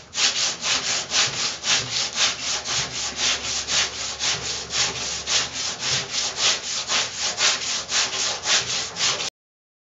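Hand sanding with a sanding block and coarse 40-grit paper on a car door panel: quick, even back-and-forth strokes of rasping, about four a second. It cuts off suddenly near the end.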